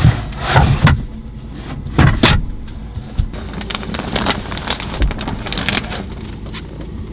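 Strong gusty wind rumbling and buffeting, with irregular loud surges and sharp flaps and rattles, most often the sound of a tent or awning shaken by the gale.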